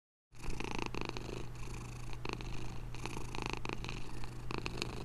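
Domestic cat purring: a steady low purr that starts abruptly a moment in and swells and eases about once a second.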